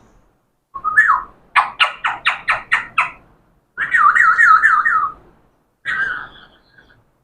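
Pet talking parrot whistling and calling without words. First comes a short rising whistle, then a quick run of about seven sharp chirps. A warbling whistle that wavers rapidly up and down follows, and a short call comes near the end.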